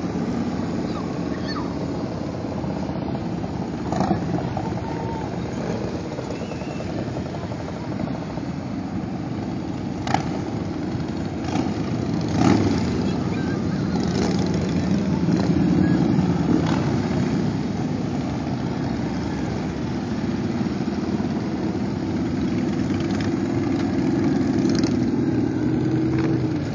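Several motorcycle engines running together in a continuous, loud mix, with a few short sharp knocks or pops over it.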